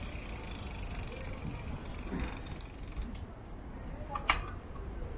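Steady rumble and hiss of a bicycle ride, with wind and road noise on the camera, and one sharp knock or rattle about four seconds in.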